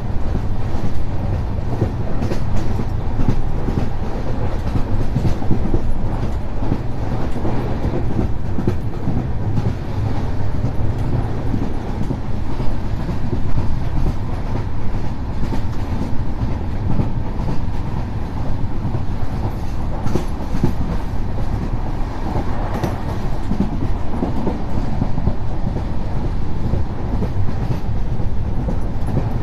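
Express train running at speed, heard from an open coach doorway: a steady rumble and clatter of the coach's wheels on the rails.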